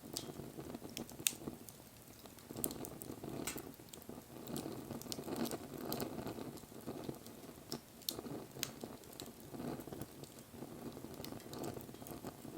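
Wood fire burning: the flames make a soft, uneven rushing that swells and fades, with frequent sharp crackles and pops from the burning wood.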